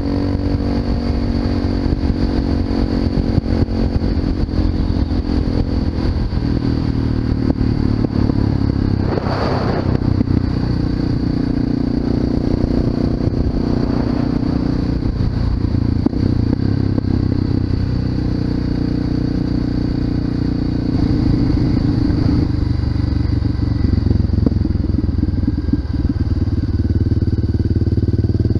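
Honda FMX 650's single-cylinder engine running through an Arrow aftermarket exhaust while riding, its note rising and falling with the throttle. Two brief rushes of noise come through, about a third of the way in and again halfway.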